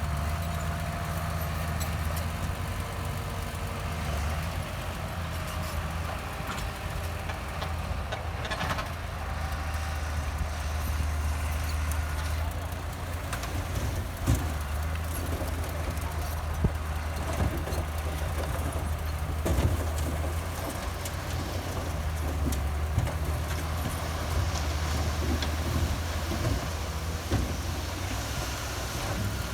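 Heavy diesel earthmoving machinery running steadily with a deep engine rumble, and scattered sharp clanks from about halfway through.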